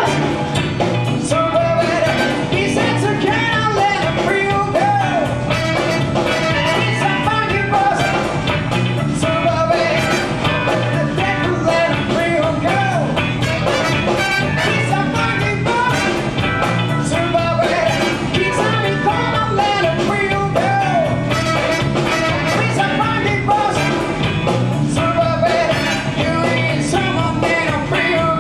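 Live band playing up-tempo music with a steady drum beat and a melodic lead line.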